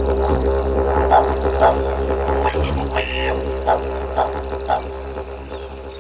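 Didgeridoo music: a steady low drone with a stack of overtones and short rhythmic accents, fading out toward the end.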